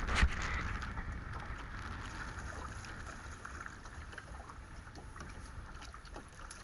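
Wind buffeting the microphone: a steady low rumble with a faint hiss, and a few light ticks.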